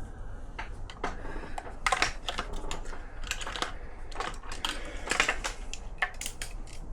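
Irregular sharp clicks and taps of hand tools working on metal engine parts, some coming in quick runs of several clicks.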